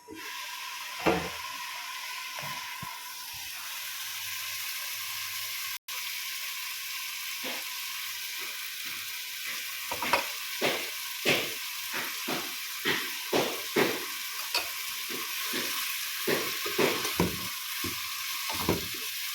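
Food sizzling in a hot pan as it is stirred; from about ten seconds in, the stirring utensil knocks against the pan roughly twice a second.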